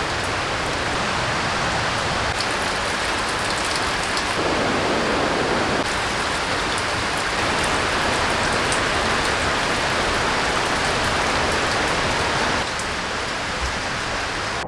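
Heavy rain falling steadily: an even, dense hiss with scattered ticks of individual drops. The sound's texture shifts for a second or so about four seconds in and again near the end.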